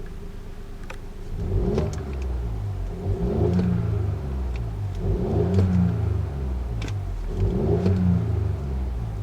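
BMW 118i's 1.5-litre three-cylinder turbo petrol engine and exhaust being revved with the car standing: four blips of the throttle about two seconds apart, each rising in pitch and falling back to idle.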